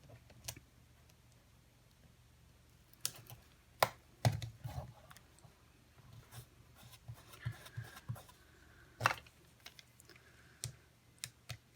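Scattered small clicks and taps of hands handling a ribbon and a cardstock card.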